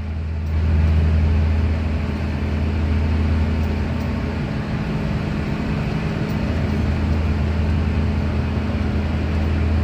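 Steady low hum of a car engine running at idle.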